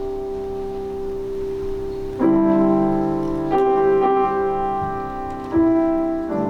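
Piano playing slow, sustained chords, a new chord struck about every one to two seconds, each left ringing.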